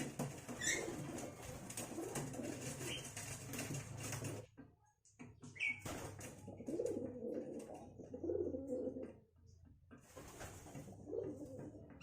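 Birds calling: repeated low notes with a few short, high chirps and scattered clicks.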